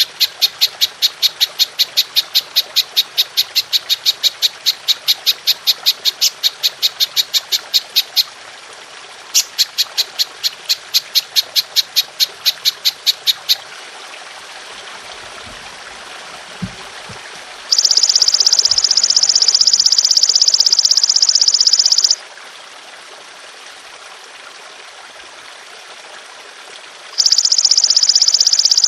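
Belalang emas (golden grasshopper) calling: fast runs of sharp, high chirps, about five a second, broken by a short pause, then long continuous high buzzing trills, one lasting about four seconds and another starting near the end. A steady hiss lies underneath.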